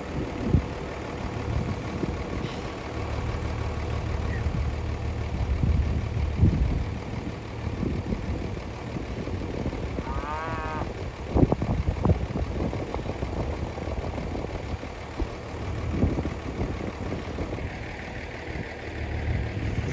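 Vehicle engine idling steadily, with scattered knocks and one short cow call about halfway through.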